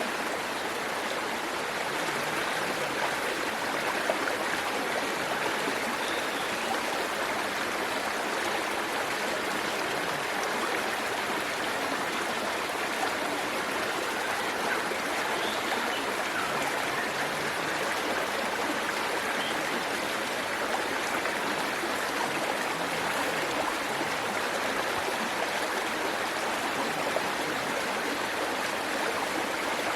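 Waterfall in a forest stream, with water rushing and splashing in a steady, unbroken stream.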